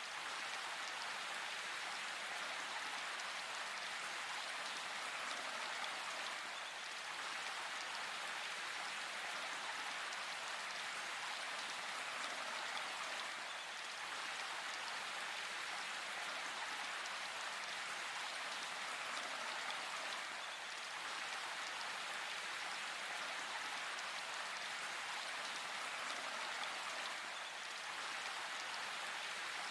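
Steady rain falling, an even patter of drops on leaves and surfaces with no thunder.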